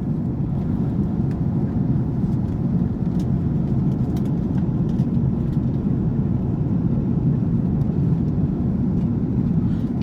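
Airplane cabin noise in flight: a steady, even low drone of engines and rushing air, heard from inside the cabin.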